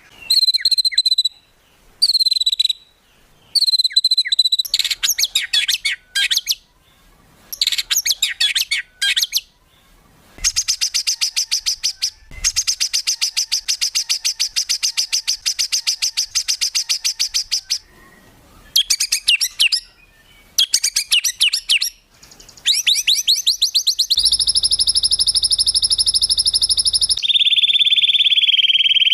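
Songbird recordings spliced together in a masteran mix: a series of fast, sharp trills and rapid repeated notes. The trills change abruptly from short high phrases to a long, even rattle-like trill, then to a buzzy trill and, near the end, a lower trill.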